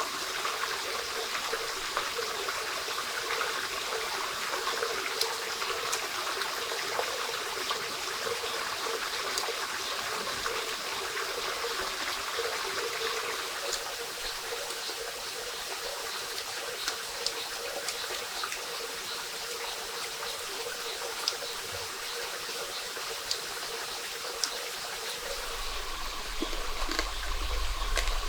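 A small stream running and trickling steadily, with scattered faint ticks over it. A low rumble comes in near the end.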